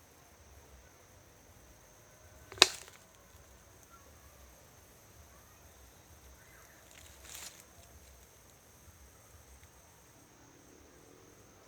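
One sharp knock about two and a half seconds in, and a softer brief swish near the middle, over a faint steady high-pitched hum like insects.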